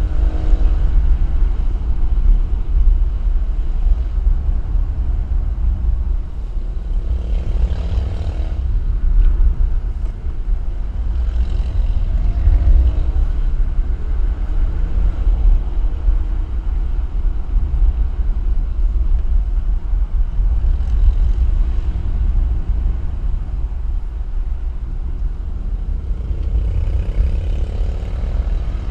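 A car driving at speed with a heavy low rumble of wind and road noise, and an engine note that swells a few times, about a third of the way in, around the middle and near the end.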